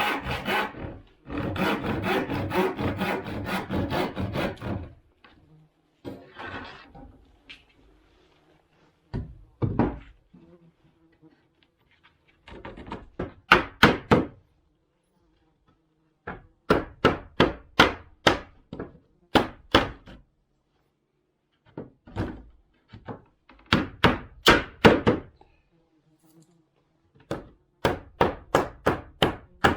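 Hammer driving nails into wood: sharp blows in bursts of several strikes, about three or four a second, with pauses between bursts. In the first few seconds there is a stretch of continuous rasping noise.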